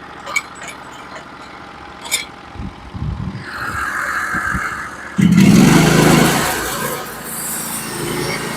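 Norwood HD36v2 sawmill's gasoline engine starting about five seconds in, running up loud and then settling into a steady run, ready for the next cut. Before it, a few light clicks and knocks.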